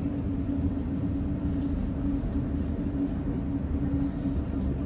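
Interior of a passenger train running into a station: a steady rumble with a constant low hum underneath.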